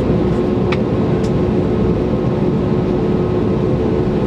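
Airbus A321neoLR's Pratt & Whitney geared turbofan engines heard from inside the cabin: a steady rushing drone with a constant hum held under it.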